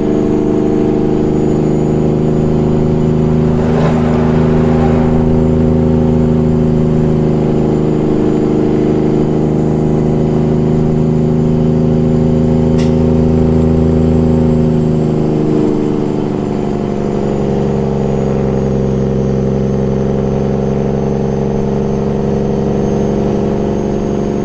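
Heavy truck's Detroit Series 60 diesel engine running steadily under way. Its pitch and level drop slightly about fifteen seconds in.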